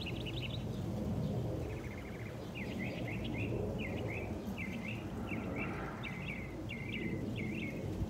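A songbird singing a long series of quick, down-slurred chirps, about two or three a second, after a short burst at the start. Steady low background noise runs beneath it.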